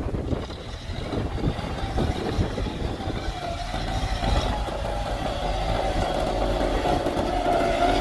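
Kubota tractor's diesel engine running with a rough clatter, growing louder from about three and a half seconds in as a steadier engine note rises over it.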